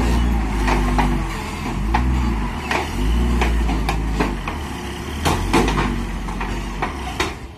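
Truck engine revving up and falling back several times, with repeated sharp knocks and clanks.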